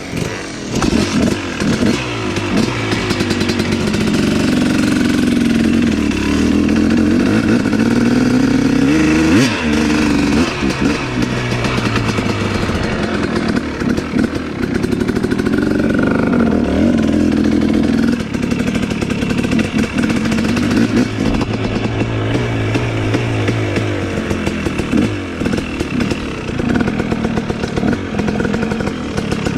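Dirt bike engine running and revving, its pitch rising and falling again and again as the throttle opens and closes.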